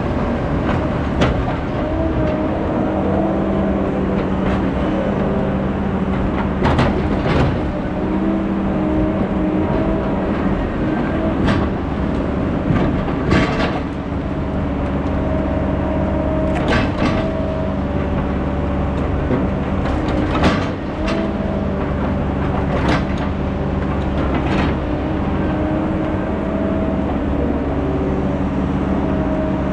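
Heavy diesel logging machinery running steadily, with sharp knocks and cracks every few seconds.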